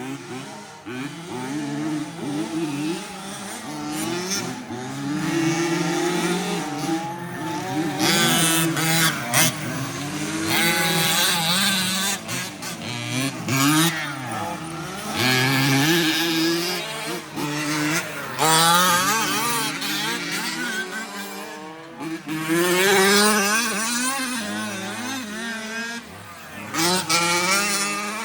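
Several radio-controlled 4WD racing trucks' motors whining up and down in pitch as the trucks accelerate and slow through the corners, with bursts of tyre and dirt noise as they pass.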